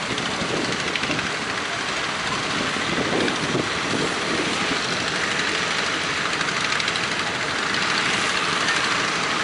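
Fishing boat engine running steadily with a fast, even chugging, over a continuous rush of noise.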